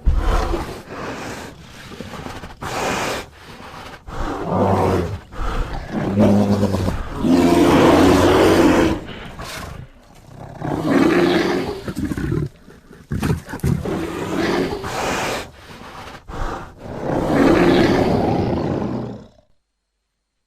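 A bear roaring and growling: a string of loud, rough calls, each a second or two long with short breaks between, cutting off abruptly into silence near the end.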